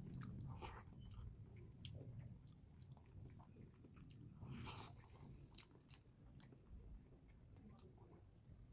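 Faint close-up chewing and biting: a person eating, with many small, irregular crunchy clicks.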